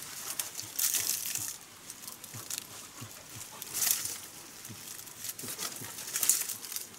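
Irregular rustling and crinkling with scattered sharp clicks, loudest in short bursts about one, four and six seconds in.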